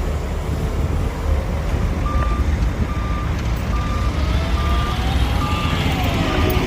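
Heavy machine's diesel engine running steadily while a reversing alarm beeps, starting about two seconds in and repeating a little more than once a second. The engine note rises and falls in the second half.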